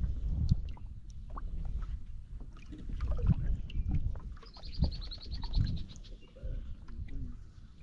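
Uneven low rumble of wind and water around a small fishing boat, with scattered knocks from the boat. About halfway through comes a brief, high, rapid trill that falls slightly in pitch.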